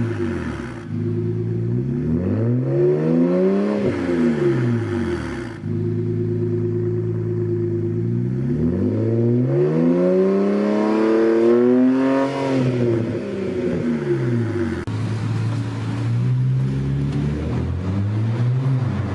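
2009 BMW 335i's N54 twin-turbo straight-six through a straight-piped exhaust (X pipe in place of the resonator, muffler deleted) revving up and dropping back several times, with steady stretches between the rises.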